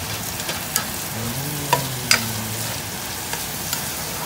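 Diced onion, ginger and garlic sizzling in hot canola oil in a pan as a spoon stirs them. Several sharp clicks from the spoon knocking against the pan.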